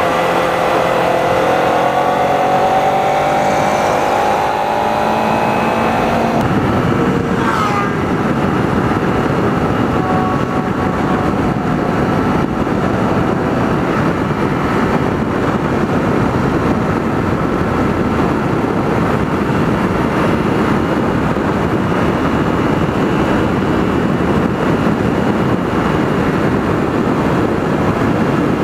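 Motorcycle ride heard from the rider's camera: a Kawasaki Ninja 300's parallel-twin engine pulling with slowly rising pitch for the first few seconds, then a steady rush of wind over the microphone at cruising speed with the engine faint beneath it. A brief falling tone sounds about seven seconds in.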